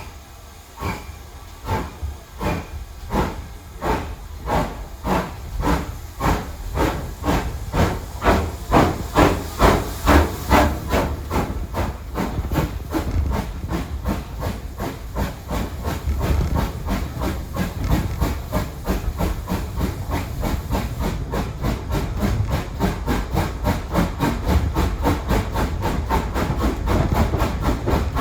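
Steam locomotive chuffing as it gets under way, each exhaust beat a burst of steam. The beats come about one a second at first and speed up steadily to several a second as the train gathers speed, over a low running rumble.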